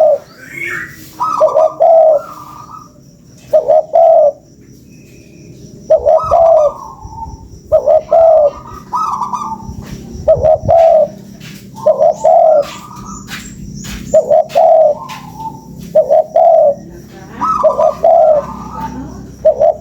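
Spotted dove (tekukur) cooing in its repeated song: short phrases of low coo notes with a higher first note, one phrase every second or two. This is a lure call used to draw and stimulate doves.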